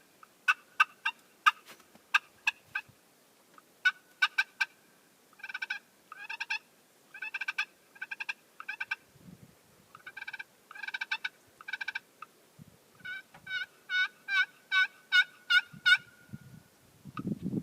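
Friction turkey pot call played with a purpleheart wood striker, imitating a hen turkey: a few sharp single notes, then several runs of two-tone yelps, ending in a longer run that grows louder.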